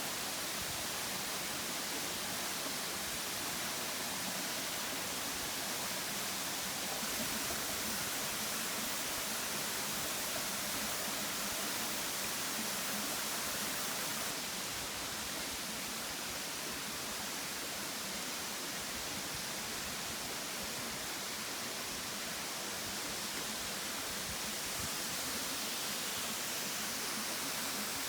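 Steady rush of falling water from a mountain waterfall or stream, an even hiss with no breaks, dipping slightly in level about halfway through.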